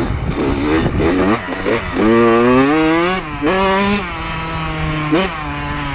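Dirt bike engine revving as it accelerates: the pitch climbs, drops and climbs again through about two seconds of gear changes, then runs steadily, with a short rev near the end.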